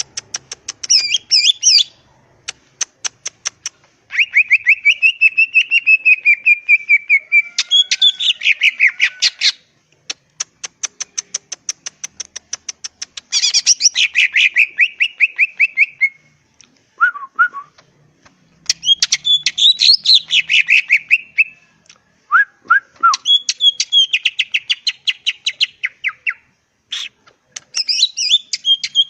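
Green leafbird (cucak ijo) in full song: long bursts of rapid, click-like trills and warbled, whistled phrases, each lasting a few seconds, with short pauses between them.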